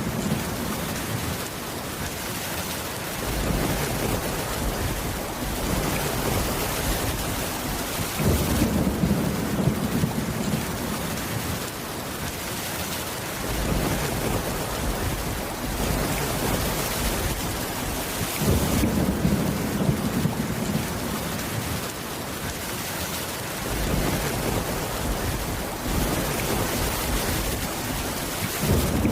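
Steady rain falling, with low rolling rumbles of thunder coming and going every several seconds. The texture changes abruptly now and then, as in a spliced ambience loop.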